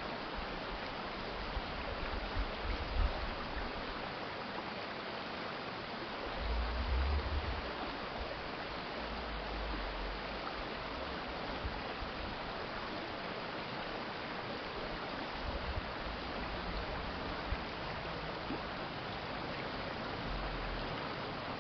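Urban stream water flowing in a steady, even rush, with brief low rumbles now and then.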